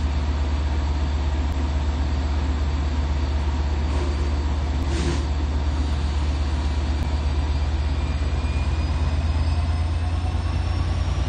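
Diesel train standing at the station with its engine running, a steady deep drone. Near the end a faint rising whine joins in.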